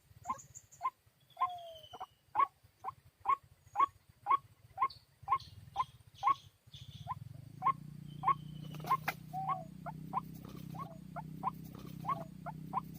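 White-breasted waterhen calling: a short call repeated steadily about twice a second. About halfway through, a low steady hum comes in underneath.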